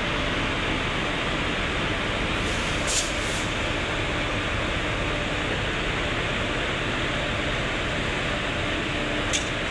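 Steady rushing noise of a moving train, with short high-pitched blips twice about three seconds in and once near the end.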